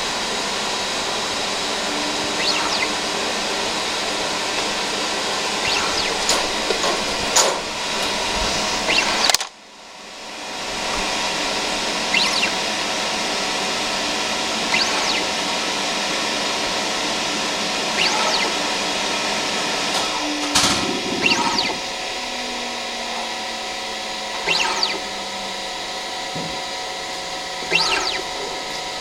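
Gaertner Scientific L115E ellipsometer running during an operation check: a steady machine hum with several steady tones, and a short motor whir every few seconds. The sound cuts out sharply for a moment near ten seconds, and a low tone slides slowly downward after about twenty seconds.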